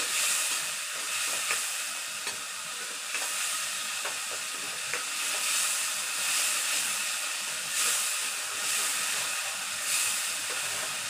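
Onion-tomato masala sizzling in a kadhai as it is stirred: a steady frying hiss that swells and fades in waves, with a few light clicks of the spatula against the pan in the first half.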